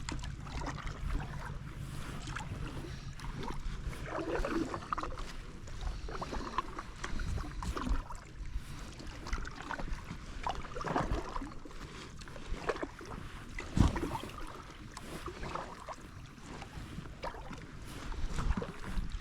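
Kayak paddle strokes splashing in the water at an irregular pace, with a low wind rumble on the microphone.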